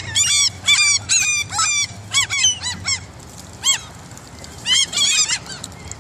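Gulls calling: a quick run of short, repeated, high-pitched calls for the first two seconds. A few single calls follow, then another quick run near the end.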